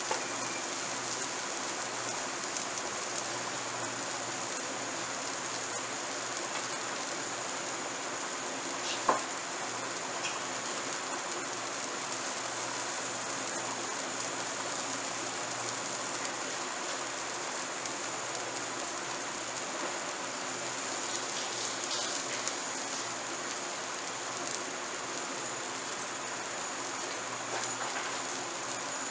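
Brinjal slices frying in sesame oil on a dosa tawa, a steady sizzle with scattered small crackles, on their first side before being turned. One sharp click about nine seconds in.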